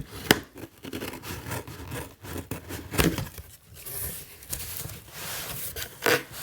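Cardboard shipping box being ripped open and handled: irregular rubbing, scraping and tearing, with a few sharp knocks, the loudest just after the start.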